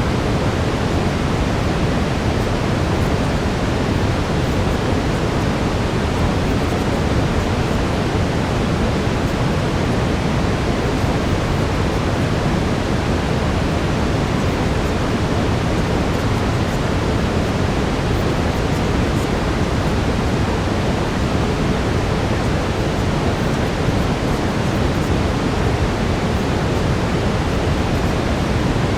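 Steady brown noise: an even, unchanging low rushing hiss, heaviest in the bass and thinning toward the highs, with no breaks or events.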